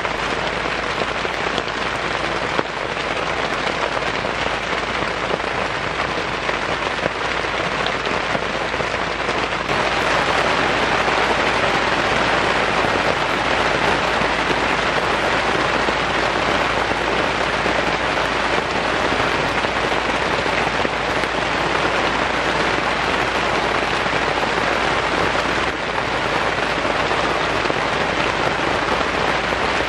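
Heavy rain falling steadily as a dense, even hiss, growing a little louder about ten seconds in.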